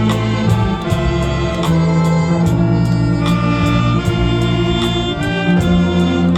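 Saxophone big band playing a popular trot song medley live: layered saxophones holding sustained chords over bass, with drums keeping a steady beat.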